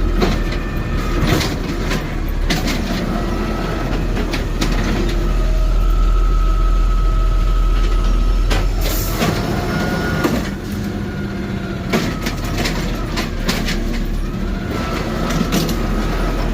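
CNG side-loader garbage truck running while its automated arm cycles to pick up and dump a trash cart. There is a steady engine rumble, a hydraulic whine that wavers a little, and scattered clunks of the arm and cart.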